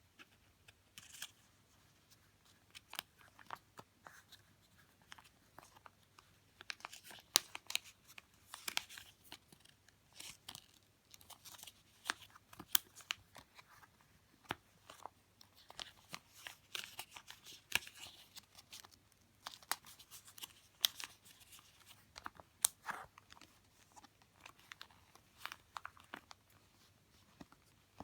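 Paper and plastic stationery being handled close up: irregular rustling and crinkling with many small sharp clicks and taps, as pages and sleeves are picked up, turned and set down.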